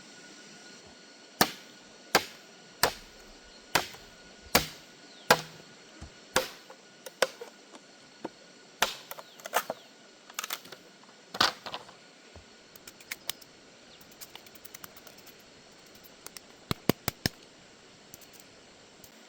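A series of sharp strikes: a steady run about one every 0.7 s at first, then more scattered and lighter hits, and a quick burst of five near the end.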